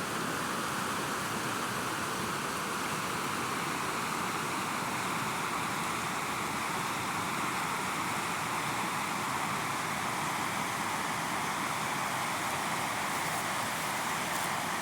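River water flowing steadily, an even rushing noise that stays the same throughout.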